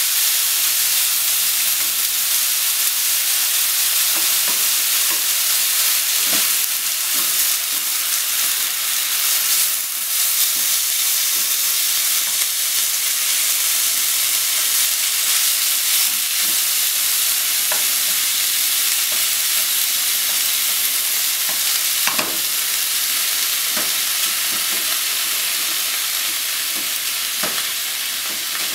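Thin-sliced pork and green onion sizzling steadily in a frying pan while being stirred with wooden chopsticks, which tap and scrape against the pan now and then, once more loudly about two-thirds of the way through.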